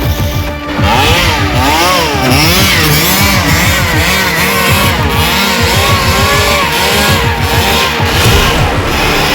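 An engine revving repeatedly, its pitch rising and falling over and over, over music with a steady beat.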